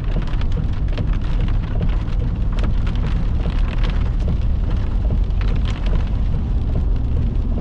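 Heavy thunderstorm rain falling, a dense patter of many sharp drop hits over a steady low rumble.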